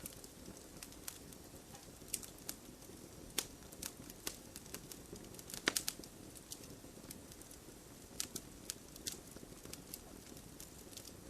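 Wood fire burning with a low steady rush and irregular sharp crackles and pops, a quick cluster of the loudest pops about halfway through.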